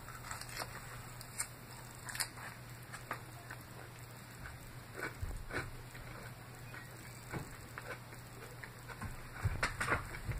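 Close-up chewing of a mouthful of salad: a bite off a fork, then irregular wet clicks and crunches of chewing, with a steady low hum underneath. Louder knocks come near the end.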